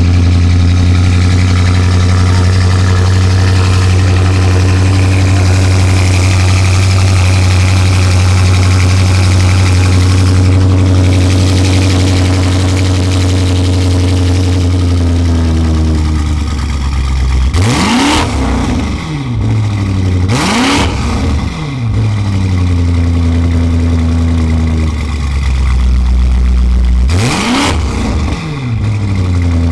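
Car engine held at a steady speed for a long stretch, then revved hard three times, its pitch shooting up and dropping back each time.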